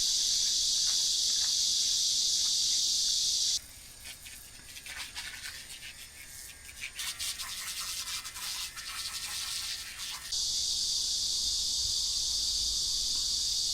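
Cicadas droning loudly and steadily in summer heat. The drone cuts off abruptly about three and a half seconds in and comes back just as suddenly about ten seconds in. In between, stream water trickles and splashes more quietly.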